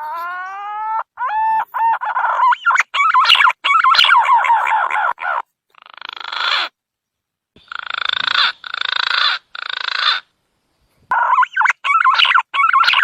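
Green pigeon (punai) calls played as a bird-lure recording: a few rising whistled notes, then a run of harsher, grating calls in bursts, broken by short abrupt gaps.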